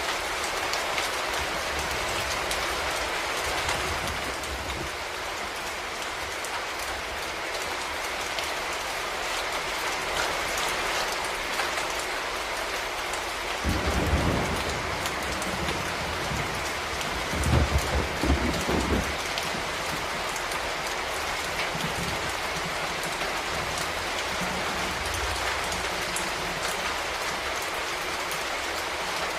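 Steady rain falling on a surface, an even hiss of drops. Two brief low rumbles come through near the middle.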